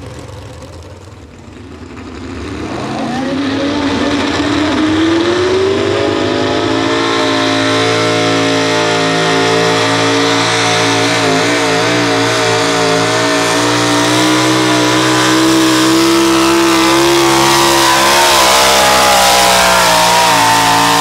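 Pro stock four-wheel-drive pulling truck's engine revving up and running flat out during a pull. The pitch climbs over a few seconds, then holds high and wavers.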